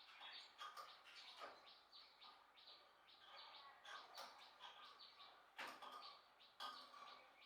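Faint birds chirping in quick short calls, with a few light clicks and taps.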